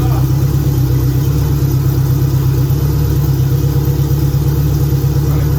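Turbocharged Honda K24A four-cylinder, swapped into a 1996 Honda Prelude, idling steadily on its first start-up after the swap.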